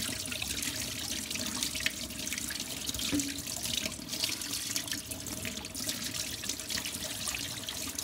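Kitchen tap running into a stainless steel sink, the stream splashing over a silver tray as gloved hands rub and rinse it, with many small ticks and clicks.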